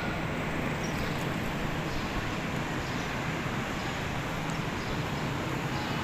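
Steady running noise of a moving vehicle, an even rumble with no changes.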